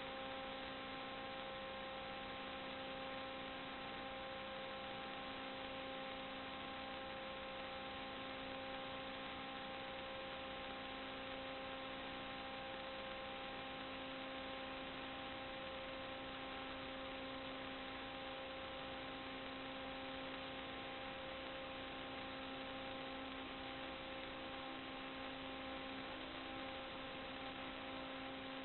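Steady electrical hum with hiss from a sewer inspection camera's recording equipment: a buzzy tone with overtones that never changes.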